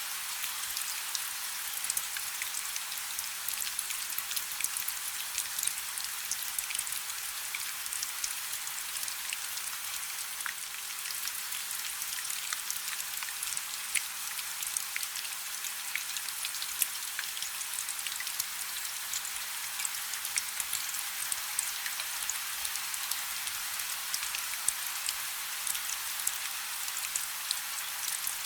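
Rain falling on a river: a steady, bright hiss made of countless small drop ticks, with a few sharper individual drops standing out now and then.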